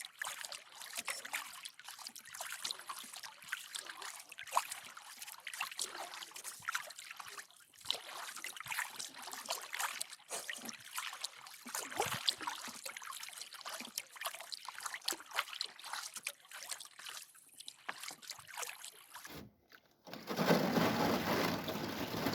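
Thin skim ice crackling and tinkling as a canoe hull pushes through it, a dense run of small sharp clicks. Near the end it cuts out briefly and gives way to a louder, steady hiss.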